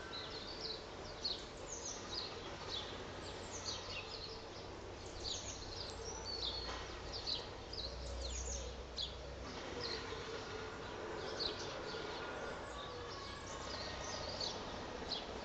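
Many small birds chirping, short high calls coming several times a second, over a steady low background hum with a faint wavering tone.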